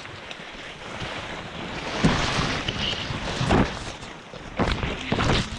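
Steady rain and wind noise on an action camera's microphone, with a few louder short thumps from about two seconds in.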